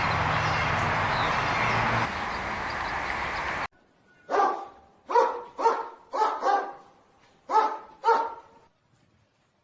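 A steady noisy background that cuts off abruptly a little over three seconds in, followed by a dog barking about seven times in quick, uneven bursts.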